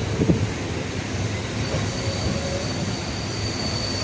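Passenger train running on the line, heard from inside the coach: a steady rumble of wheels on rail with a couple of knocks at the start. A faint, high wheel squeal sets in just before halfway.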